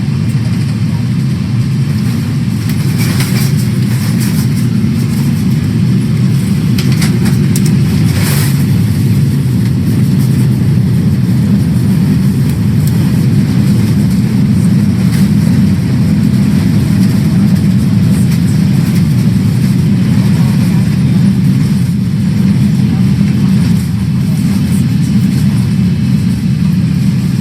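Steady low rumble of a Boeing 777-300ER's engines and airflow heard from inside the cabin, with a few brief light rattles about three and eight seconds in.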